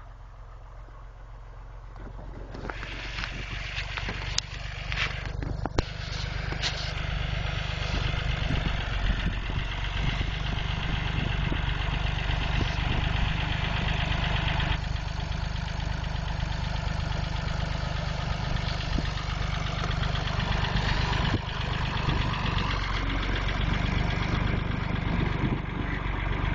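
Massey Ferguson tractor engine running, growing louder over the first few seconds, then holding steadily loud with a deep rumble.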